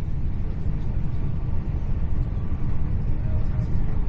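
Steady low rumble inside a Hitachi Class 800 train carriage running at speed, the wheels and running gear droning on the track.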